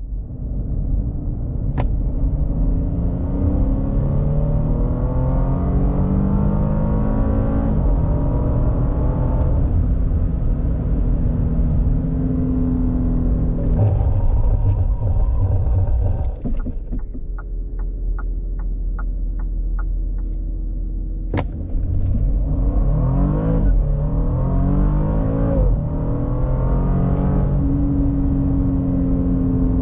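Bentley Flying Spur Hybrid's 2.9-litre twin-turbo V6 accelerating hard, its note climbing and dropping back at each upshift of the eight-speed dual-clutch gearbox. About halfway through it settles to a steady hum under a regular ticking of about two a second, then pulls up through the gears again.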